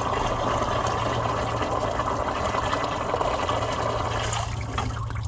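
Liquid pouring in a steady stream into a container, thinning out near the end: old engine oil laden with water draining from the compressor's engine.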